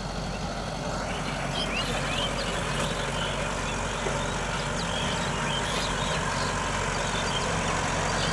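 Kubota tractor's diesel engine running steadily, growing gradually a little louder.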